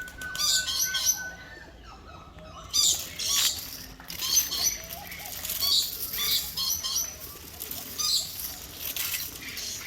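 Many small birds chirping in quick, high-pitched clusters, one call after another throughout.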